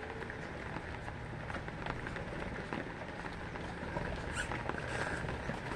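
Steady rain falling, with scattered light taps and clicks through it.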